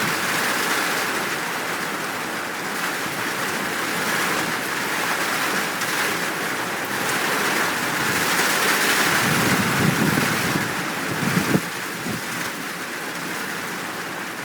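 Steady downpour of rain, with a low rumble of thunder rolling through from about nine seconds in.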